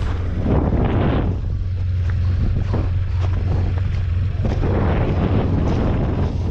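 Snowplow vehicle's engine running steadily with a low hum while plowing. A rushing noise swells about half a second in and again after about four and a half seconds.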